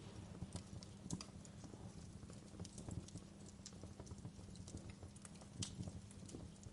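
Wood fire crackling in a fireplace: irregular small pops and snaps over a steady low rumble, with the sharpest pop about a second in and another more than five seconds in.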